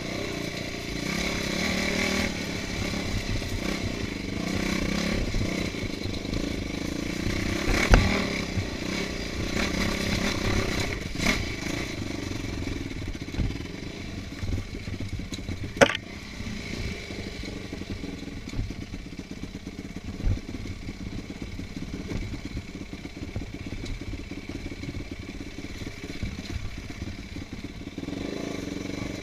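Off-road motorcycle engine running on a trail ride, with clattering from the ride over rough ground. The engine is louder through the first half and drops back after. Two sharp knocks stand out, about eight seconds in and about sixteen seconds in.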